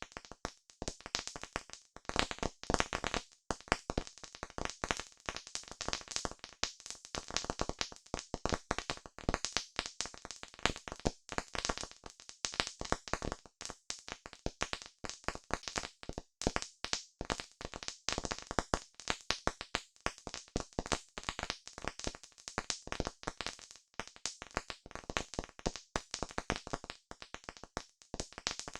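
Campfire burning with dense, irregular crackling and popping of the wood.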